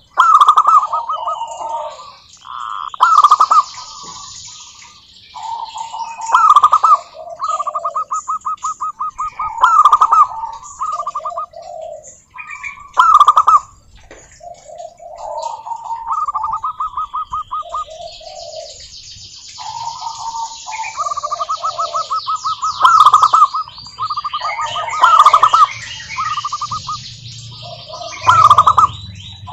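Zebra doves (perkutut) singing: phrase after phrase of fast staccato coos, each run of quick notes ending in a louder accented note every few seconds. Higher chirping runs behind them.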